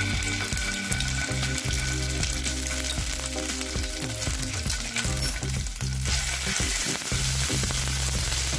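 Ginger paste sizzling and crackling in hot ghee in a non-stick pan. Near the end it is stirred with a wooden spatula, and the sizzle grows brighter.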